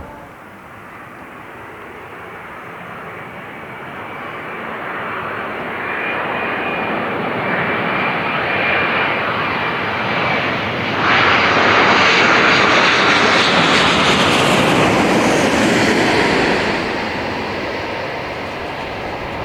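Airliner passing low overhead: its engine noise builds steadily with a thin high whine as it approaches, jumps abruptly louder about eleven seconds in as it goes over, stays loud for a few seconds, then fades away.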